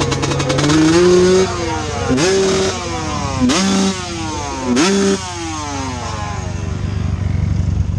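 Dirt bike engine revved hard in four bursts, each climbing to a held high pitch, then cut off sharply and falling back, over the steady running of other motorcycle engines.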